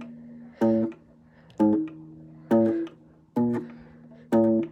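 Small guitar's D string plucked about once a second, five notes, the fretting finger moved to a different fret between plucks so the pitch wanders up and down. Each note rings out and fades before the next: a simple eerie Halloween-style melody.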